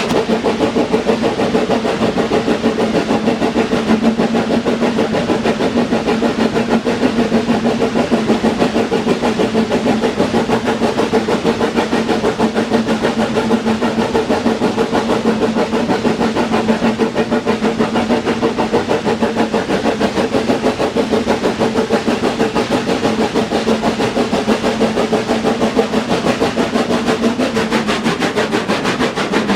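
Train running steadily: a constant machine drone with two held tones and a fast, even pulsing.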